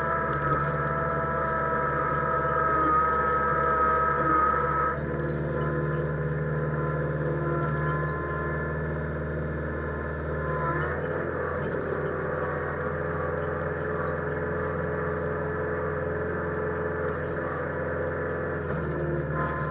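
Massey Ferguson 1648 compact tractor's diesel engine running steadily, its tone shifting a little about five seconds in and again about eleven seconds in.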